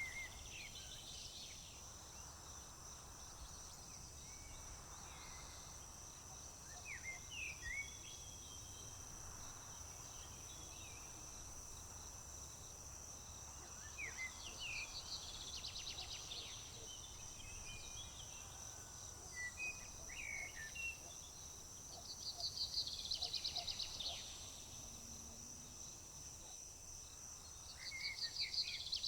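Songbirds calling in short chirps, with a few louder rapid trills, over a steady high-pitched insect drone of crickets.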